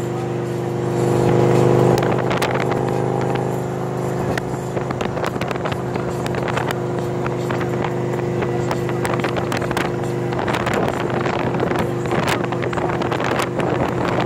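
Victory Cross Country V-twin motorcycle engine running steadily at highway cruising speed through new aftermarket exhaust pipes. Wind buffets the microphone, more often in the second half.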